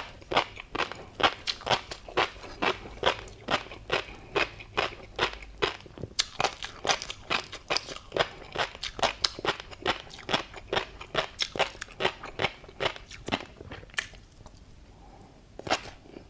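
Close-miked chewing of tobiko (flying fish roe) and a crunchy seafood topping: rapid sharp pops and crunches, several a second, with a short pause near the end before they start again.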